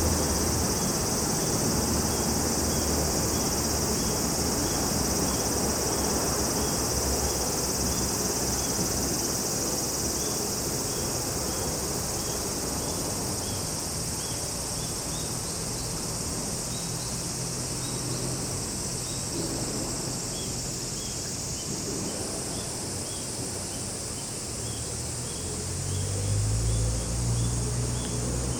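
Chorus of summer insects: a continuous high shrill with a short chirp repeating steadily about twice a second. A low rumble comes in briefly near the end.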